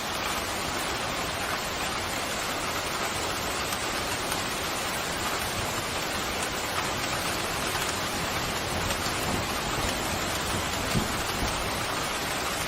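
Steady pouring rain, with a few louder drops striking close by near the end.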